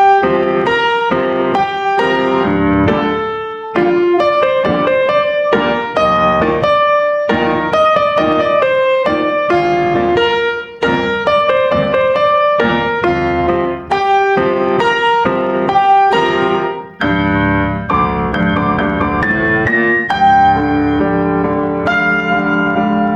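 Solo piano music, a steady run of struck notes and chords.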